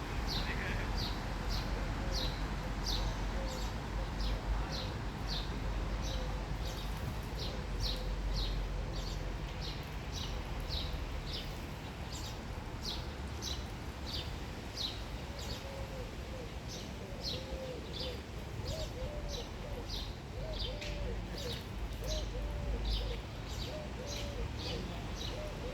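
A small bird repeating a short, high, falling chirp about twice a second. From about two-thirds through, field pigeons join with low, wavering coos.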